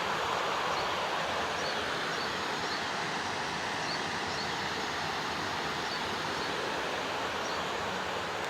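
River water rushing steadily, with faint insect chirps recurring high above it.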